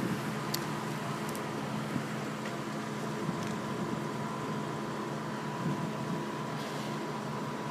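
Steady machinery hum in a car wash tunnel, with a thin steady whine over a low drone. A couple of faint clicks about half a second and a second and a half in.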